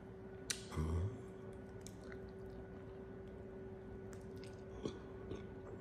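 Quiet chewing and mouth sounds of someone eating a mushroom Philly steak and cheese sub, with scattered small clicks and a short low thump about a second in. A steady low hum runs underneath.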